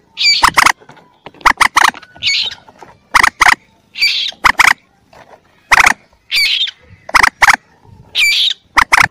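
Recorded calls of young mandar (common moorhen) played as a hunting lure. A short looping squeal alternates with quick clusters of two or three sharp, clipped notes, repeating about once a second.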